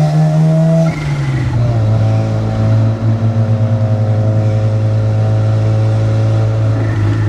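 Mazda RX-7's 13B twin-rotor rotary engine under way on a drive, heard with the car; the engine note drops sharply about a second in, as in a gear change, then pulls on steadily with the pitch slowly rising.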